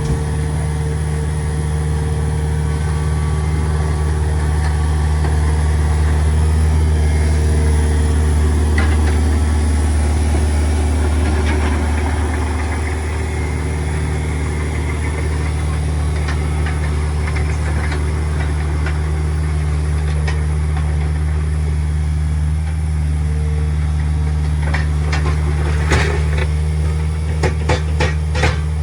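A heavy bucket machine's engine runs steadily, with clanks and knocks of rock against the bucket as it moves fill, most of them coming in a cluster near the end.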